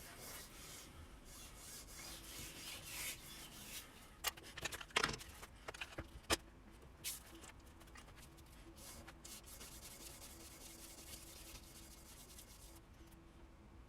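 Steel broadhead blade being rubbed back and forth on 600-grit sandpaper laid on glass, a faint dry scraping, as the flat back of the bevel is lapped smooth to remove grinder marks. A few sharp clicks and taps of the blade on the glass come about four to six seconds in.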